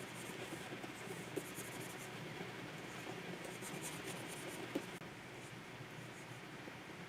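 Stylus nib scratching across the surface of a Wacom 24 Pro pen display in short runs of strokes, with two light taps; the strokes stop about five seconds in.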